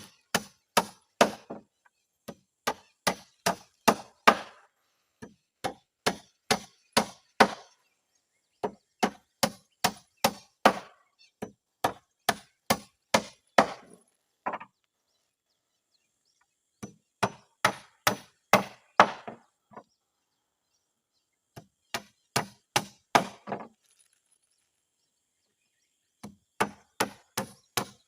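A hammer driving nails into wooden floorboards: runs of quick, sharp blows, about three a second, in groups broken by short pauses.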